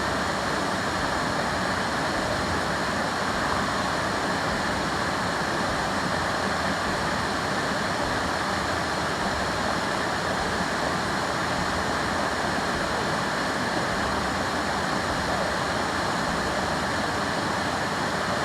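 A waterfall rushing, a steady, even wash of falling water with no change in its sound.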